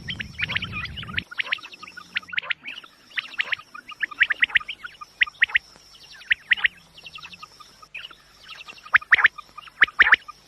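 Quail calling: quick, sharp high chirping notes delivered in short clusters that repeat every second or so, with a brief low rumble under the first second.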